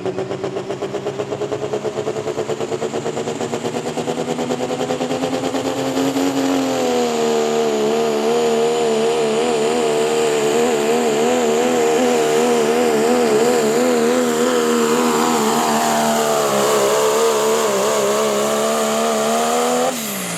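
Engine of a competition pulling vehicle under full throttle on a pull. The revs climb for about six seconds, then hold high with a wavering pitch, sag briefly and rise again, and the engine cuts off suddenly just before the end.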